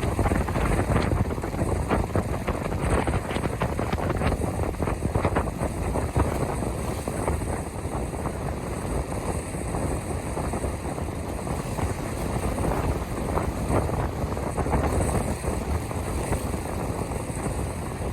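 Steady rushing of wind and water aboard an ocean-racing sailboat under way, with constant low buffeting on the microphone.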